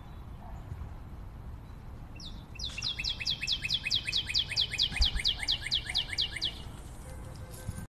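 A forest bird calling a fast run of short, high, down-slurred notes, about five a second, for roughly four seconds starting a couple of seconds in, over low steady background noise.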